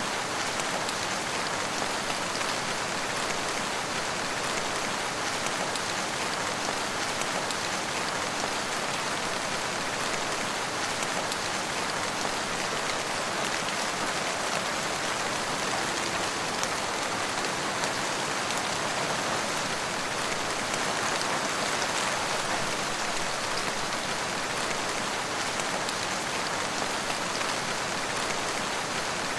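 Steady rain falling, a dense even hiss of drops with fine patter on surfaces.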